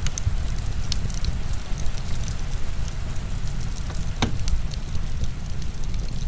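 Heavy rain falling steadily with a deep low rumble, mixed with a wood fire crackling in irregular sharp pops, one louder pop about four seconds in.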